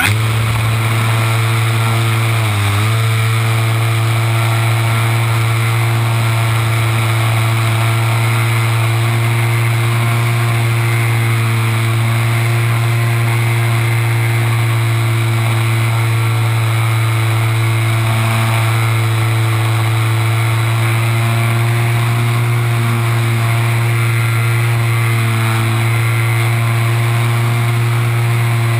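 Super Cub RC model plane's motor and propeller running at steady throttle, heard close up from a camera mounted on the plane, with one brief dip in pitch a little under three seconds in.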